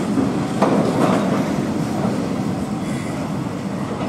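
Freight train of bogie oil tank wagons rolling past on the rails, its wheels clacking over the rail joints, with a sharp knock about half a second in. The rumble eases as the brake van at the tail goes by.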